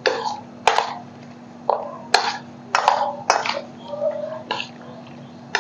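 Raw chicken pieces being mixed by hand in a wet marinade of egg, cornflour and vinegar: a string of short, irregular squelches, roughly one or two a second.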